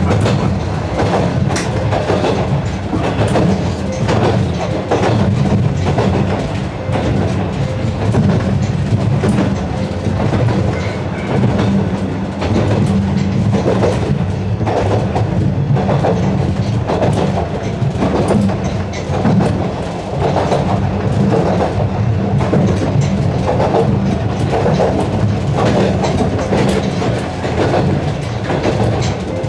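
Narrow-gauge (762 mm) electric train of the Yokkaichi Asunarou Railway running along the track: a steady low rumble with irregular clickety-clack of the wheels over rail joints.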